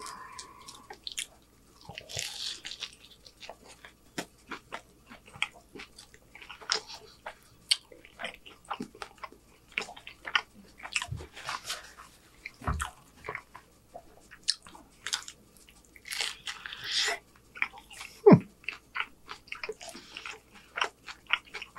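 Close-miked eating of homemade chicken street tacos on corn tortillas: biting and chewing with many short wet mouth clicks and smacks, and two longer crunchy bites, about two seconds in and again about sixteen seconds in.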